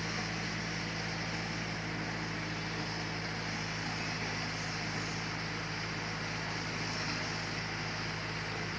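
Sawmill machinery running steadily: a constant low engine hum under an even hiss, with no change in load.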